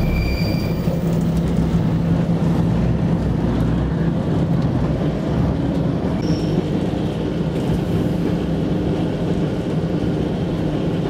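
Diesel railcar of the Corsican metre-gauge railway running steadily, heard from inside the carriage: a constant engine hum and the rumble of wheels on the track.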